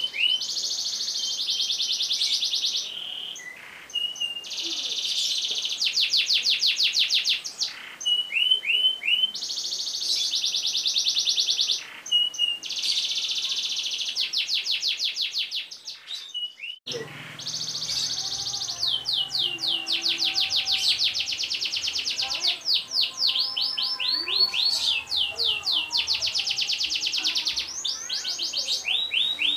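Domestic canary singing long, fast rolling trills: runs of rapid repeated notes broken by short chirps. A brief gap about halfway through, after which a faint low hum runs under the song.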